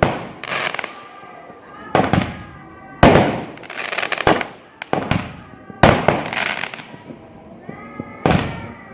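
Fireworks going off: a series of sharp bangs, roughly one every second or two, most trailing off into a fading crackle.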